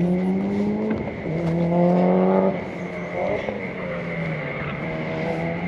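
Rally car engine revving hard under acceleration, its pitch climbing through the gears with a brief break at a shift about a second in and another around two and a half seconds in, then running quieter as the car pulls away.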